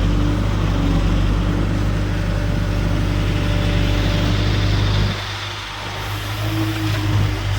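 Heavy diesel farm machinery engine running steadily with a deep drone. About five seconds in the low drone drops away, leaving a lighter engine hum.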